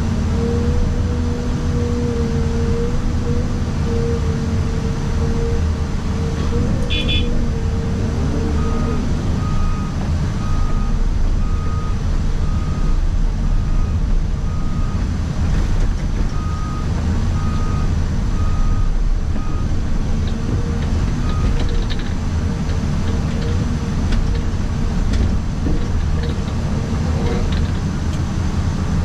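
Excavator engine running steadily under load, heard from inside the cab, with a steady whine for the first eight seconds or so. From about nine seconds in, a backup alarm beeps about once a second for some twelve seconds.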